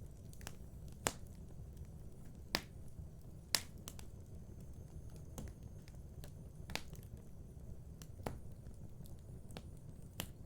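Wood fire crackling in a fireplace: sharp irregular pops and snaps, a few louder ones, over a steady low rumble of the flames.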